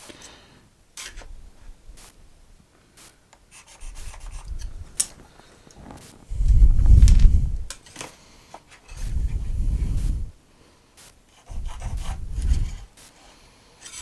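Wooden workpieces being handled and slid against each other, giving several dull rubbing strokes of about a second each, with light knocks and taps between them.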